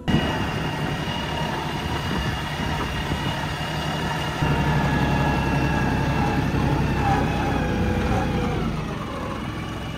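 35 hp LS XR3135 compact tractor's diesel engine running steadily. It gets louder about four and a half seconds in and eases slightly near the end.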